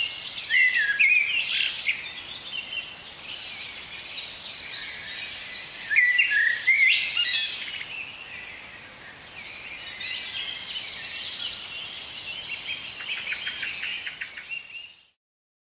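Birds chirping and singing: many short, high calls with quick pitch glides, loudest about a second in and again around six to seven seconds, with a fast run of notes near the end before the sound fades out.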